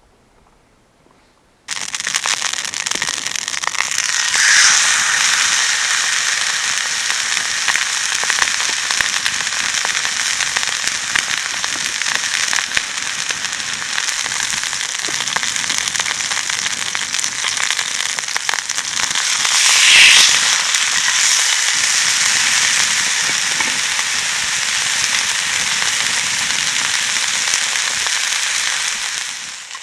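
Food frying in a hot pan: a loud, dense sizzle with spitting crackle that starts abruptly a couple of seconds in, swelling louder twice, and drops away at the very end.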